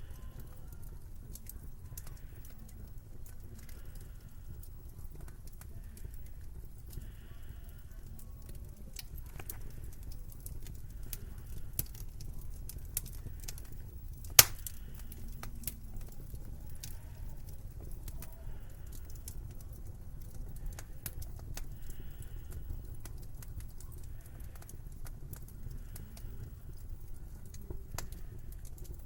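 Fireplace fire crackling over a low rumble: many small sharp snaps, with one loud pop about halfway through.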